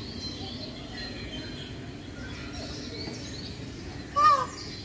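Birds chirping and calling, with many short chirps over a steady low background hum of outdoor noise. About four seconds in, one brief, louder call rises and falls in pitch.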